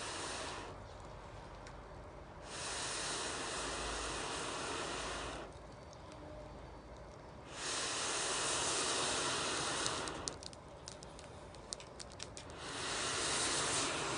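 Three long hissing rushes of air, about three seconds each and roughly five seconds apart, with a few sharp crackles from the campfire in the pause before the last one.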